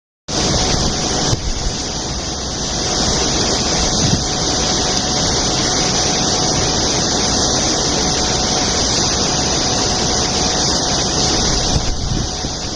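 Steady rushing of water swirling down into a deep hole as a whirlpool forms, a constant hiss over a low rumble.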